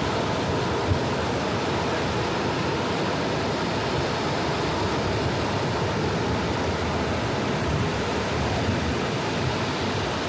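Soft sea waves washing onto a beach: a steady, even wash of surf with no separate breaks standing out.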